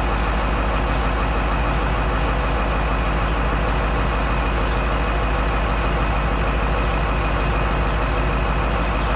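Dump truck's diesel engine running steadily at idle while its air compressor charges the brake system from 85 toward 100 psi.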